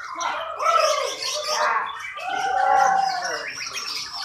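Songbird singing a varied, chattering song of quick rising and falling phrases, with one longer drawn-out note in the middle.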